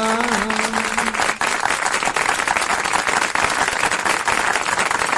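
An audience applauding, a dense steady clapping throughout. A held note sounds over it at the start and stops about a second in.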